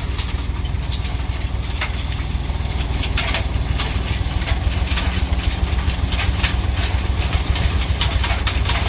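Tipper truck's diesel engine running steadily with a low, pulsing rumble, with scattered sharp clicks and clatters over it.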